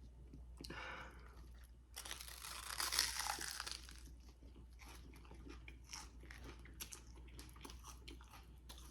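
Close-miked mouth sounds of a person eating: a crunchy bite about two seconds in, then soft chewing with small wet clicks.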